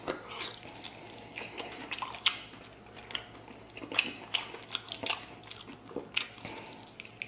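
A man chewing a mouthful of meat close to the microphone: irregular wet smacks and bites, roughly one or two a second.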